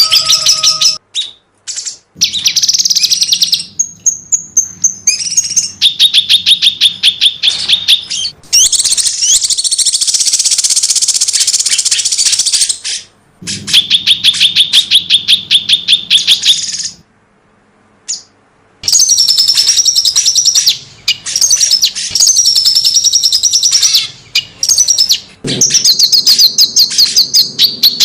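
Cucak cungkok songbird singing its rapid-fire 'tembakan rentet' song: long runs of sharp, high chirps repeated several times a second, broken by short pauses.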